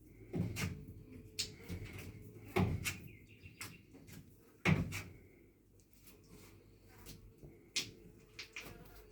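Irregular knocks and clunks, about eight sharp hits, with the loudest nearly five seconds in.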